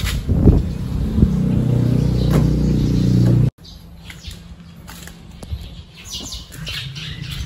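A steady low hum that cuts off abruptly about halfway through, followed by quieter outdoor background with birds chirping.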